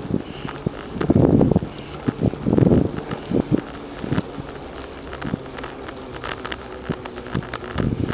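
Riding a bicycle: wind gusts buffet the microphone in the first few seconds, with scattered clicks and rattles from the bike throughout, then a steadier, quieter run of rolling noise.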